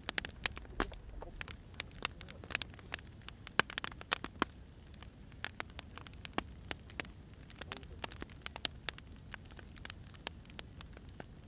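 Burning firewood crackling: irregular sharp pops and snaps over a low, steady rumble.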